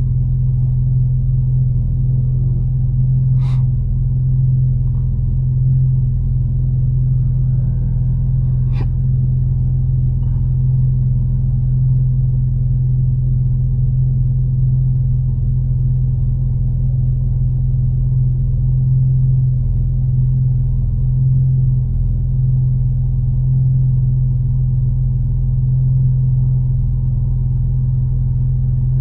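Steady low drone of a tuned BMW M4 at an even cruise: its twin-turbo straight-six, with Fi exhaust and catless downpipes, holds a constant note with no revving. Two short clicks come a few seconds in and again about nine seconds in.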